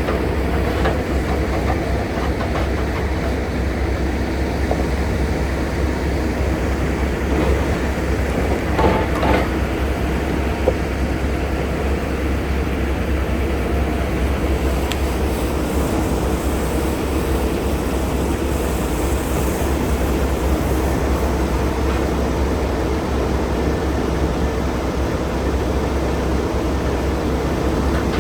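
A logging truck's diesel engine and road noise while driving: a steady low rumble, with a few brief rattles about nine seconds in.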